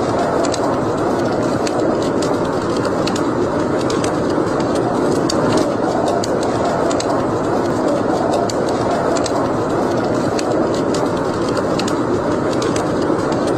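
Wood fire burning in a fireplace: a steady rushing noise with irregular small crackles and pops scattered throughout.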